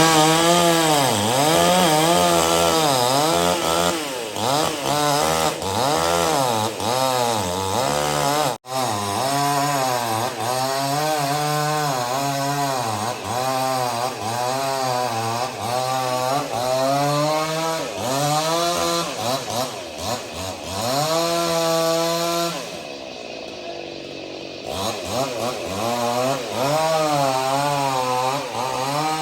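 Two-stroke chainsaw cutting into a dry tree trunk, its engine pitch rising and falling as it bites and eases off. There is a brief break about a third of the way in, and near the end it eases back for a couple of seconds before picking up again.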